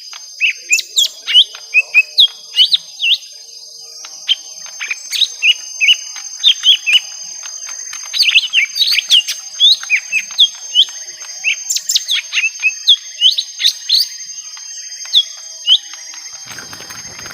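Young mini cucak ijo (small leafbirds) giving rapid, sharp chirps and quick down-slurred notes in a long aggressive fighting exchange, over a steady high-pitched tone. A brief rustling noise comes near the end.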